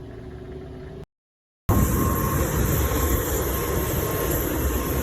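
A quiet hum, then a cut to silence about a second in, followed by loud, steady rumbling vehicle running noise with a faint steady tone.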